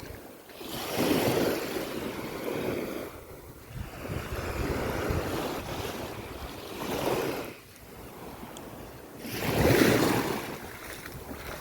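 Sea waves breaking and washing up a sandy beach, the surf swelling and fading in several washes, the loudest near the end, with wind buffeting the microphone.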